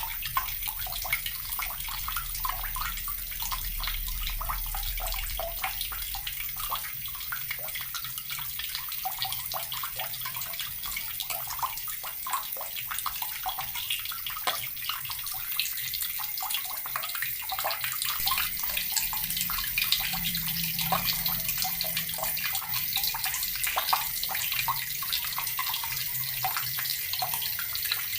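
Water tap running continuously, the stream splashing into water below with a steady hiss and fine spattering.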